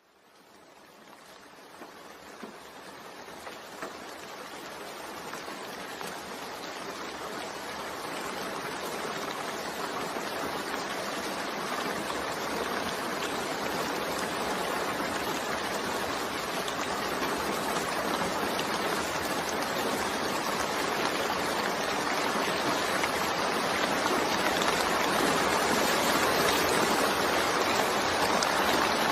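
Steady rain falling, fading in from silence over the first several seconds and growing gradually louder, with a few single louder drops early on.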